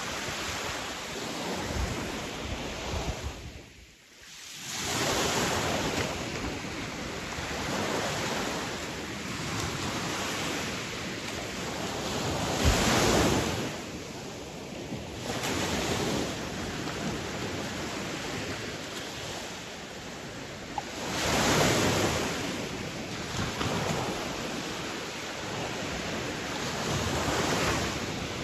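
Sea waves washing onto a shore: a continuous rush of surf, with waves swelling louder roughly every eight seconds. The sound briefly drops away about four seconds in, then returns.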